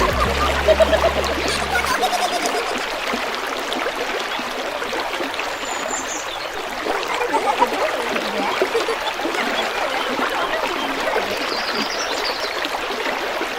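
Shallow river water running and trickling steadily. Low background music fades out about two seconds in.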